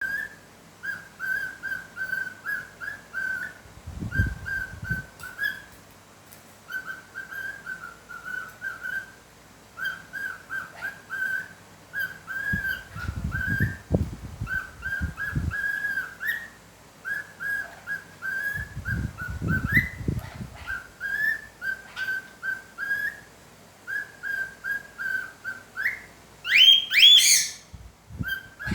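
Small pet parrot whistling: quick runs of short, even-pitched whistled notes, phrase after phrase with brief pauses, and a few louder rising whistles near the end. Low rumbles come in three times along the way.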